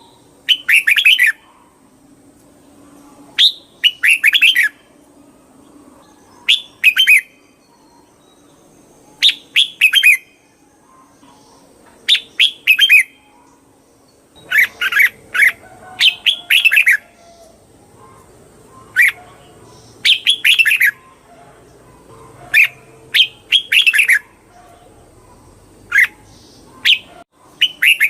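Red-whiskered bulbul singing: short, bright phrases of a few quick notes, repeated about every three seconds.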